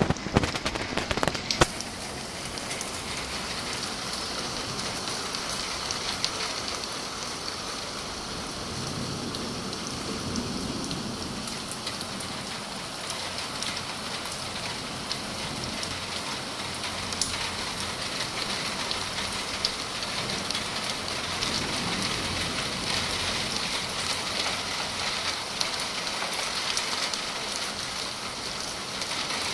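Rain falling steadily, an even dense hiss of drops striking surfaces, with a few loud thuds in the first second or so.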